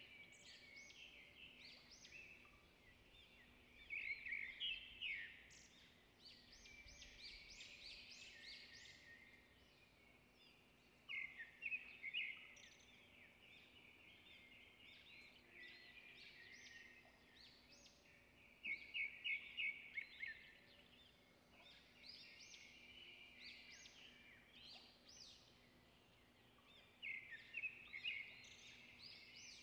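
Faint birdsong: phrases of rapid, high chirps repeating every several seconds, with softer chirping between, over a faint steady hum.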